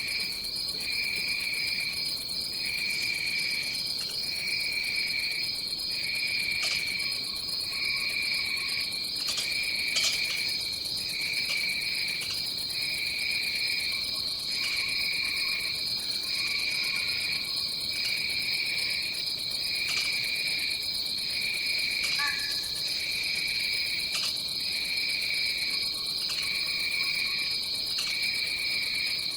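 Insect chorus of a tropical forest: a steady high trill, with a second insect repeating a lower pulsing trill about every second and a half.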